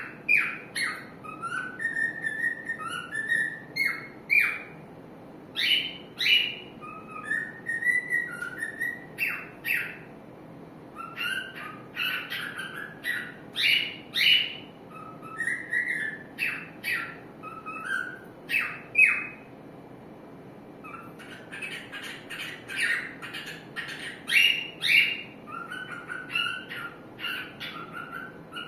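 Cockatiel singing: a busy run of short chirps and whistled notes, some gliding up or down in pitch, with a brief pause about two-thirds of the way through before the chirping resumes.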